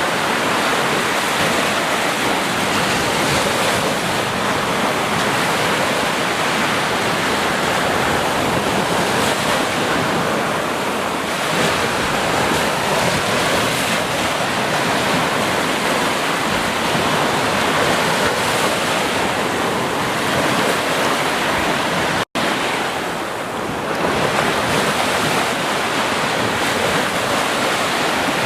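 Ocean surf washing steadily onto a beach, a continuous rush of waves. About two-thirds of the way through, the sound cuts out for an instant, then comes back slightly softer for a moment.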